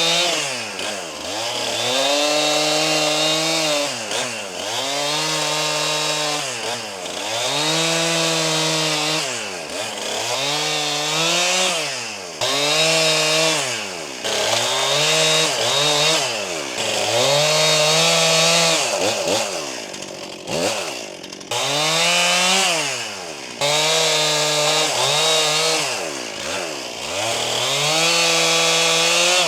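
Stihl MS261 C 50cc two-stroke chainsaw running at high revs, its pitch dipping sharply and climbing back about every two seconds, a dozen times over.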